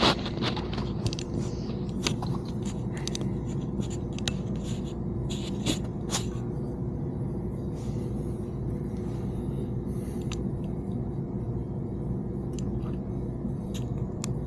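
Scattered light clicks and scrapes of radio-install parts being handled and positioned in a dashboard, over a steady low hum.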